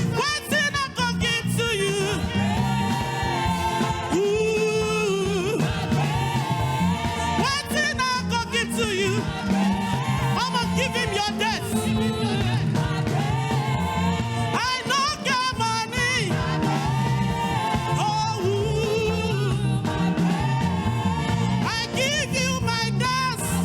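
Gospel praise-and-worship song: voices singing over a band's accompaniment with a moving bass line.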